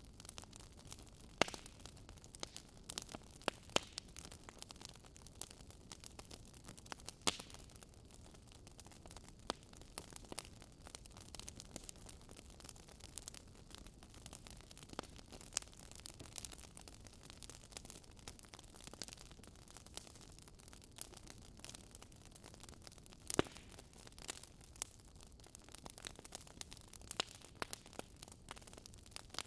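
Wood fire crackling in a fireplace: irregular sharp pops and snaps over a low, steady hiss of flames, with the biggest pops about a second and a half in and near the end.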